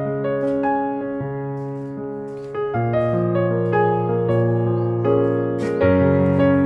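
Background piano music: slow, sustained electric-piano chords over held bass notes.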